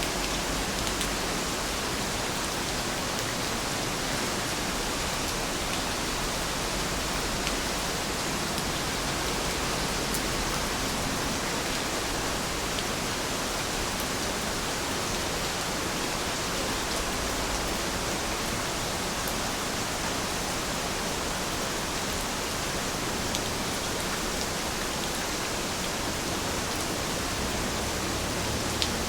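Steady rain falling: an even hiss, with a few faint drop ticks now and then.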